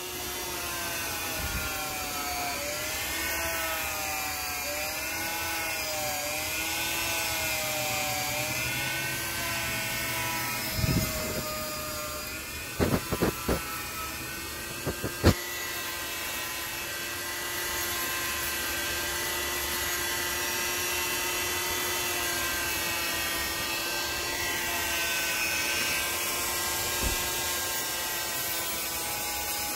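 Small electric power tool motor running with a steady whine, its pitch dipping and rising repeatedly in the first part as the tool is pressed into the work, then holding steady. A few sharp knocks about halfway through.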